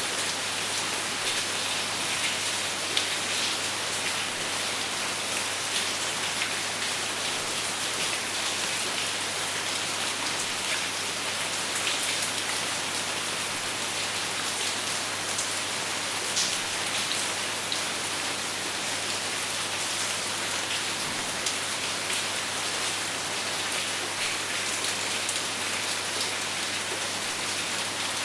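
Steady, heavy rain falling, with a dense hiss and many individual drops ticking on a surface; no thunder.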